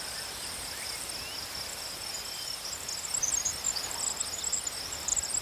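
Insects trilling: a steady high-pitched drone with quicker, higher chirping over it that grows busier about halfway through.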